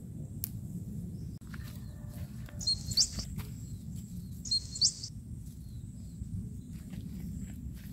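A bird gives two short, high chirps about two seconds apart, over a steady low rumble. Faint clicks and rustles come from moringa leaves and stems being picked by hand.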